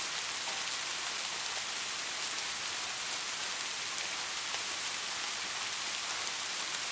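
Steady rain, a constant hiss of rainfall with fine pattering drops.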